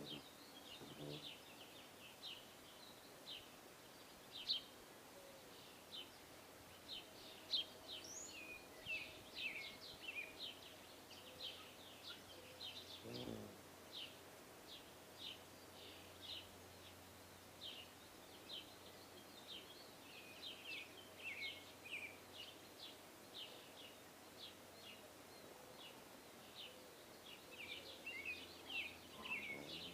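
Small birds chirping faintly, many short high chirps following one another, some dropping in pitch.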